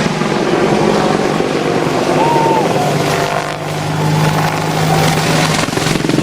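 Helicopter running steadily: engine and rotor noise with a constant low hum.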